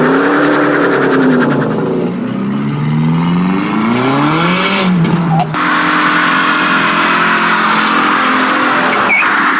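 Loud modified car engine revving up and down, then accelerating with a climbing pitch. About five and a half seconds in, the climb breaks off and the engine settles into a steady, level note.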